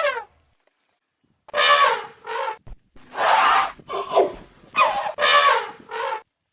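Elephant trumpeting: a run of about seven short, harsh blasts, starting about a second and a half in.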